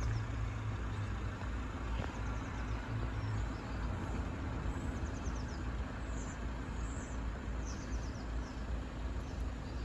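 Steady low outdoor rumble of distant traffic at a level crossing, with a few faint bird chirps about six to eight seconds in.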